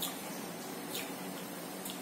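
Close-up eating sounds: three short wet mouth clicks while chewing rice and fish, at the start, about a second in and near the end, over a steady hiss.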